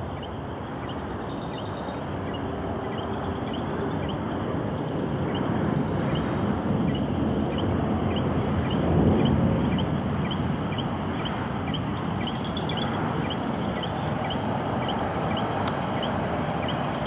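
Distant jet aircraft noise: a steady rushing roar that swells about nine seconds in and then slowly eases. A small, high chirping call repeats about twice a second throughout.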